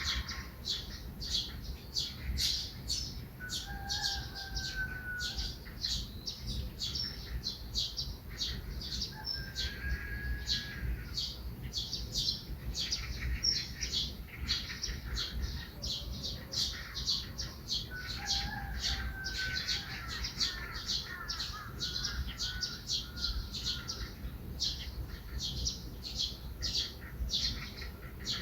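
Small songbirds chirping, short high chirps repeated two or three times a second without a break, with a few longer whistled calls lower in pitch now and then.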